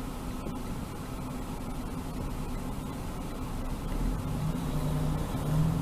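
Car driving, heard from inside the cabin: steady road and engine noise with a low hum. About four seconds in, a deeper engine drone comes in and the sound gets a little louder.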